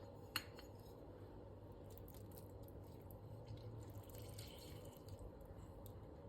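Faint kitchen food-preparation sounds: one sharp tap near the start, then scattered soft taps and light clinks over a low steady hum.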